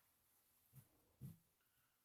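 Near silence, with two faint soft thuds about a second in as hands press a chicken wing firmly into coating flour.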